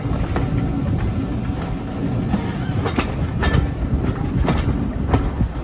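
A train running on the rails: a steady low rumble, with sharp clicks of the wheels over rail joints coming several times in the second half.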